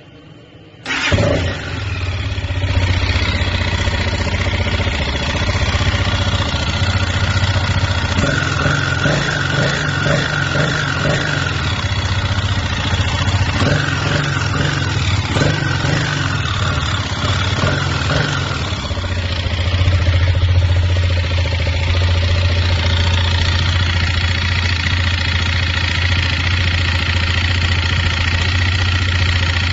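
A 164FMM single-cylinder four-stroke motorcycle engine starts about a second in and runs. Its speed shifts for about ten seconds in the middle, then it settles back to a steady idle. The engine has a knock that the owner traced to a faulty crankshaft.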